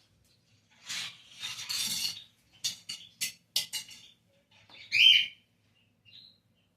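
Small birds chirping and calling in short, irregular bursts, with one louder call about five seconds in.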